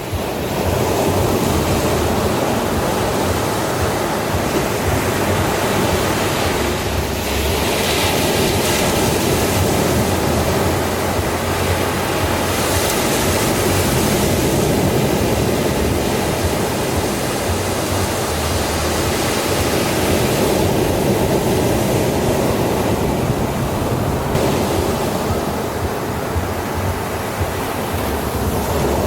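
Ocean waves breaking and washing on the shore: a steady rushing surf that swells louder and hissier every several seconds as waves come in.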